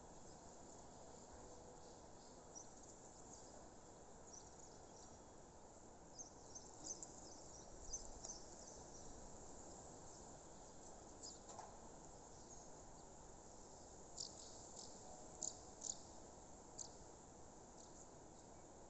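Faint outdoor nature ambience: a steady low hiss with scattered short, high-pitched chirps that come in two clusters, one about a third of the way in and one near the end.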